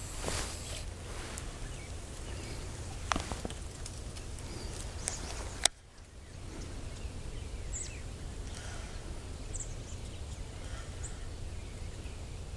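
Outdoor creekside ambience with a steady low wind rumble on the microphone and a couple of sharp clicks in the first half. A few short, high bird chirps come in the second half.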